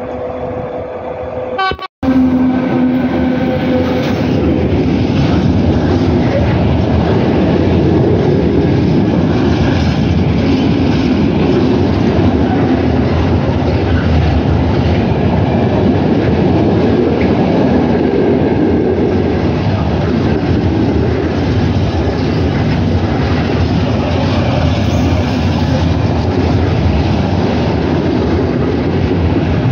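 Freight train sounding its horn as it approaches, with a brief break in the sound about two seconds in. Then a long string of open-top freight wagons passes close by with a loud, steady rumble and wheel clatter on the rails.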